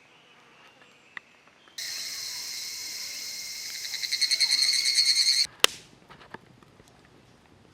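Higurashi (evening cicada) calling: a high-pitched ringing call starts suddenly, breaks into rapid pulses as it gets louder, then cuts off abruptly. A sharp click follows just after.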